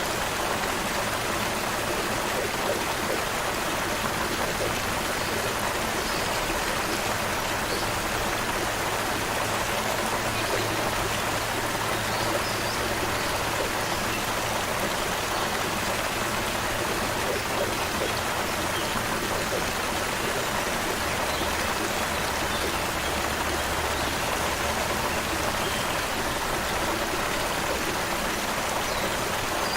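Shallow creek water running and babbling steadily, with a few faint distant bird chirps.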